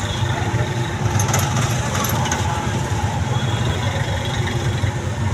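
Heavy engine running steadily, with a few light clinks about a second to two seconds in.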